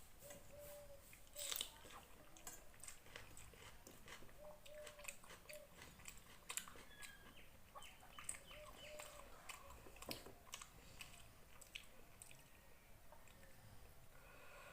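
Quiet, close-up chewing and eating mouth sounds from a person eating a rice-and-curry meal, with many soft wet clicks.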